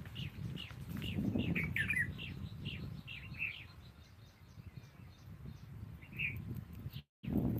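Small birds chirping: a quick run of short, high, falling notes that thins out after about three seconds, over a low rumble. The sound cuts out for a moment near the end.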